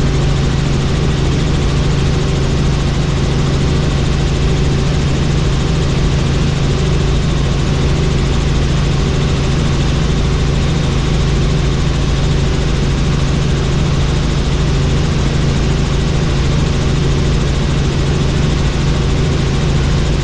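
Helicopter in flight: a loud, steady drone of turbine and rotor with a strong low hum, unchanging throughout.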